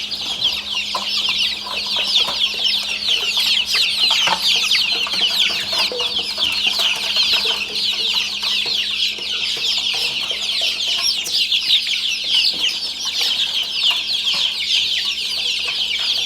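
A flock of young native (deshi) chicken chicks peeping all at once: a dense, unbroken chorus of short, high cheeps, each falling in pitch.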